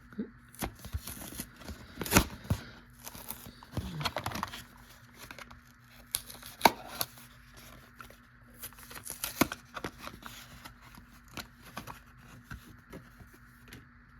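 Plastic blister and cardboard card packaging of a die-cast toy car being torn and worked open by hand: irregular tearing, crinkling and sharp plastic clicks, loudest about two seconds in and again near seven seconds.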